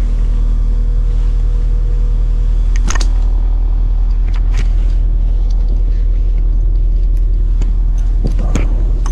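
Train's steady low rumble, with a few short clicks and rattles.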